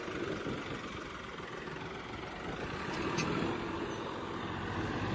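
Tractor engine running steadily and faintly under a noisy outdoor background, with a single sharp click a little over three seconds in.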